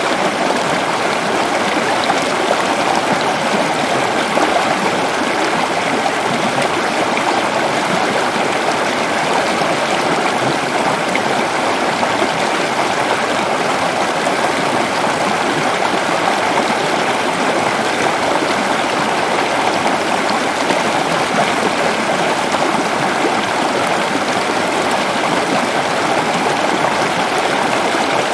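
Waterfall rushing steadily, a constant loud wash of falling water without a break.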